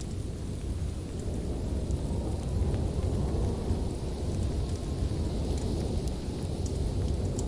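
Wood fire in a fireplace burning with a steady low rumble of flame, swelling slightly midway, and scattered small crackling pops.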